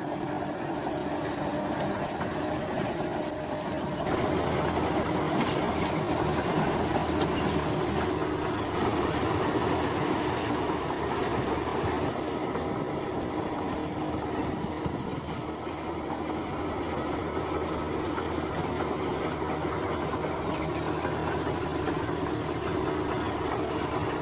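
Komatsu bulldozer's diesel engine working steadily under load with the clatter of its steel tracks, getting louder about four seconds in.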